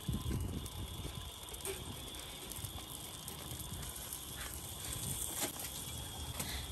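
Faint sizzling with a few light crackles from redfish fillets cooking on foil in a hot smoker as melted butter is drizzled over them, over a steady high-pitched tone.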